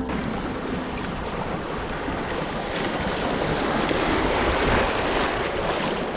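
Steady rushing of river water, an even hiss that swells a little partway through.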